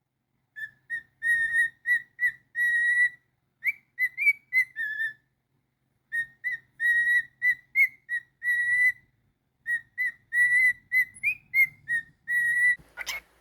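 A cockatiel whistling a tune in four quick phrases of short, clear notes, mostly on one pitch with small upward flicks and brief pauses between phrases. Near the end comes a short, harsh burst.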